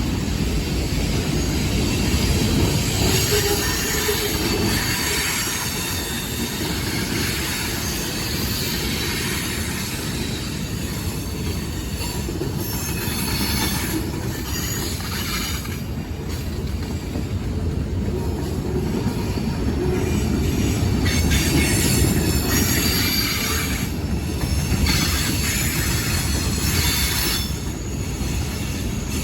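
Train rolling by on the rails: a steady low rumble with high-pitched wheel squeal that comes and goes, strongest a few seconds in and again over the last ten seconds.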